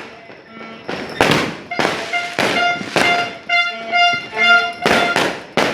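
Firecrackers banging several times at irregular intervals, the loudest about a second in, three seconds in and near the end. Between the bangs a held, horn-like tooting tone sounds in short blasts.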